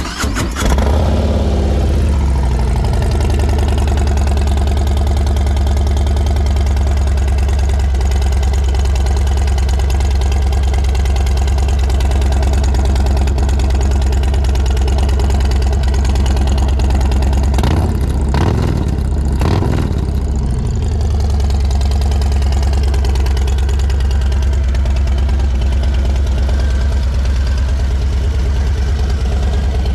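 A 2022 Harley-Davidson Low Rider ST's Milwaukee-Eight 117 V-twin starts and runs through an HPI 2-into-1 aftermarket exhaust. It settles from its start-up revs into a steady idle. About eighteen seconds in, the throttle is blipped a couple of times, then the engine drops back to idle.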